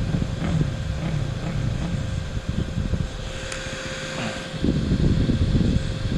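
Dirt bike engine running, louder from about four and a half seconds in.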